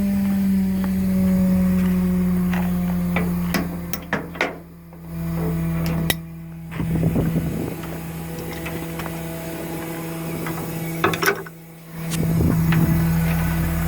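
Garbage truck's Caterpillar C7 diesel running steadily while the rear-loader's dumpster lift gear works, with repeated metallic clicks, clanks and rattles, the loudest cluster about eleven seconds in.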